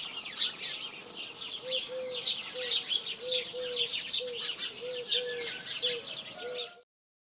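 Small birds chirping and twittering busily, with a lower short note repeated about ten times at uneven intervals underneath; the sound cuts off abruptly near the end.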